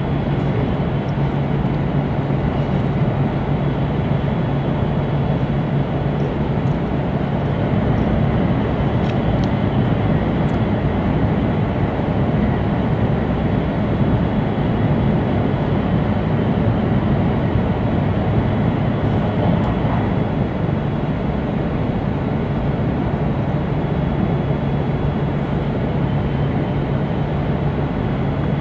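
Steady running noise inside an E2 series Shinkansen car: a dense rumble of wheels on rail with a low hum that fades about halfway through and returns near the end, and a faint high whine.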